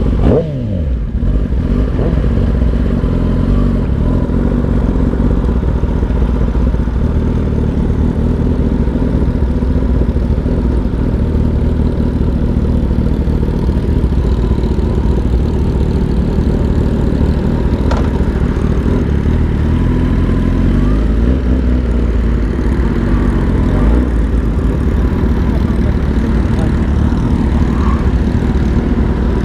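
Motorcycle engine running steadily while riding, with a heavy low rumble of wind over the microphone. There is a falling drop in engine pitch about a second in.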